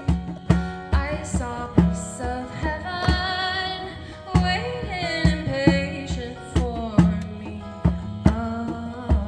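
Live acoustic music: a hand drum beating steadily about twice a second under pitched instruments, with a voice singing a wavering, held melody through the middle.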